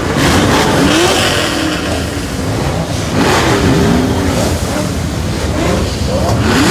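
Many Chevrolet Camaro engines revving at once, overlapping blips of rising and falling revs from several cars with no let-up.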